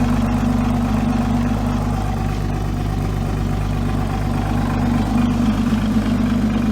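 The boat's outboard engine, a 2017 Evinrude 200 hp, idling steadily with an even low hum.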